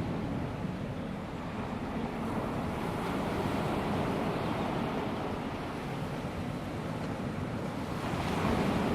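Calm sea: small waves washing onto a sandy beach, a steady surf wash that swells gently and eases, with some wind on the microphone.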